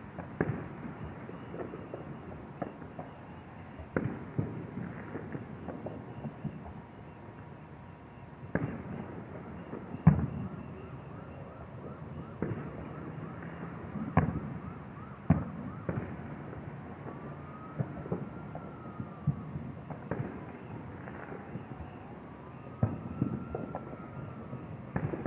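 Fireworks popping and banging at irregular intervals, with the loudest bang about ten seconds in. In the second half, a siren-like tone rises and falls twice.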